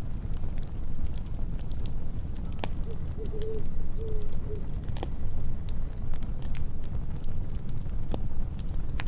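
Campfire crackling, with scattered sharp pops over a steady low rumble, while a cricket chirps about once a second. A brief low warbling call sounds about three seconds in.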